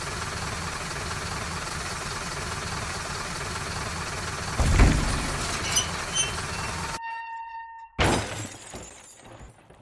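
Steady mechanical running noise, a heavy thump about halfway through with a few small clicks after it, then a brief ringing tone and a sudden crash that trails off.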